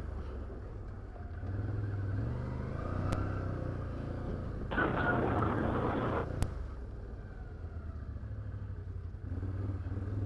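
Can-Am Outlander 850 ATV's V-twin engine running at low trail speed, its drone rising slightly about one and a half seconds in, with a louder rushing noise for about a second and a half around five seconds in and a few sharp clicks.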